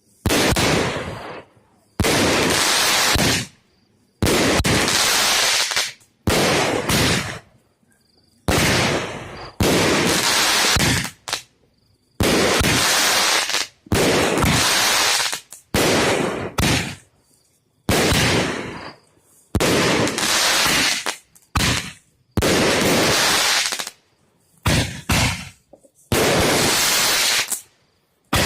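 Fireworks going off one after another, a loud burst roughly every one to two seconds, each lasting about a second before cutting away, with short quiet gaps between.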